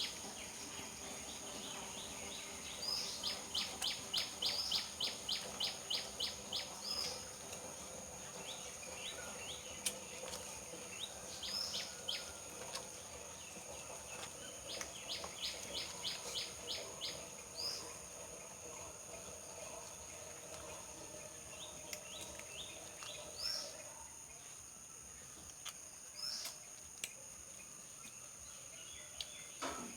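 Birds calling: two quick runs of a dozen or so evenly repeated high chirps, with single rising calls in between, over a faint steady high-pitched whine.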